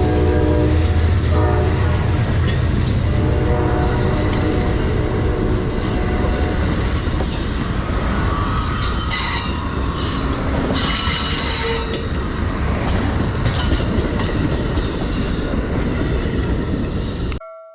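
Amtrak passenger train with two diesel locomotives running past. The horn sounds over a low engine rumble and stops about three seconds in. Then the wheels squeal high on the rails for several seconds, and the sound cuts off suddenly near the end.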